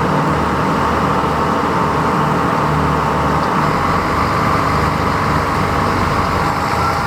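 Underfloor diesel engines of an Irish Rail 29000 class diesel multiple unit running steadily while the train stands at the platform, a low hum under an even station din.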